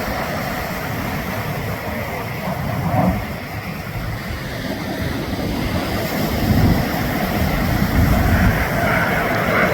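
F-35B's jet engine rumbling at a distance, with wind buffeting the microphone, growing louder over the second half as the jet comes closer.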